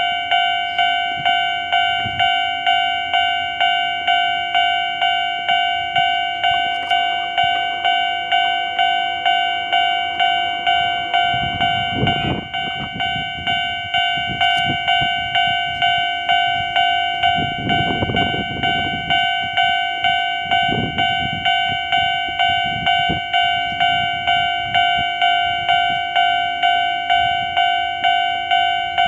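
Japanese railway level-crossing alarm ringing over and over, a clanging tone struck about one and a half times a second. Lower rumbles rise beneath it about 12 and 18 seconds in.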